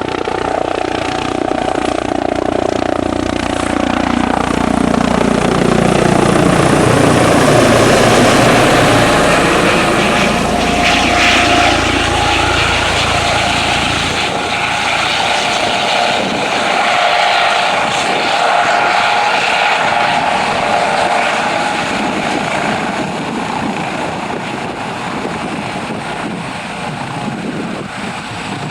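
Eurocopter EC155 twin-turbine police helicopter landing: steady rotor and turbine noise, loudest about eight seconds in. The pitch falls and then rises again over the first ten seconds, after which a steady high whine carries on.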